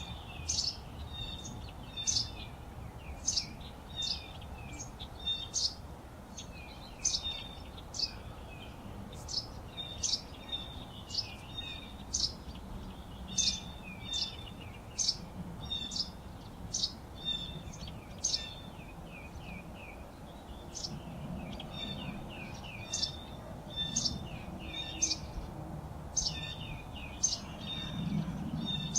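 Birds chirping and whistling: short, sharp high-pitched chirps repeating about once or twice a second, over a faint, steady low background noise.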